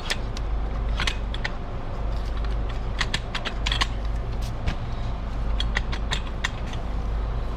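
Metal exhaust parts and hardware clinking and knocking as they are handled and fitted, with sharp irregular taps over a steady low hum.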